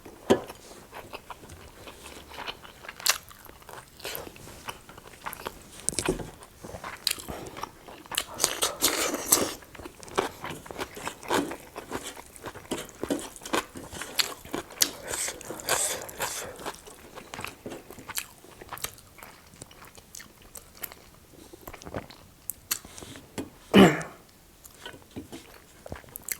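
Close-miked eating: steady chewing and crunching bites of food, full of small mouth clicks, with one brief louder sound about 24 seconds in.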